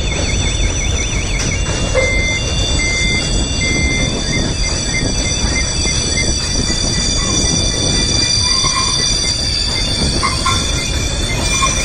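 Loaded freight train wagons rolling past on the rails, a steady rumble with a high, sustained wheel squeal.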